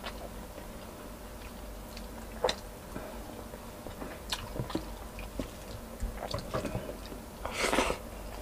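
Close-miked eating sounds of a man chewing saucy chicken and rice eaten by hand: soft, wet chewing clicks and smacks, with a short, louder breathy noise near the end.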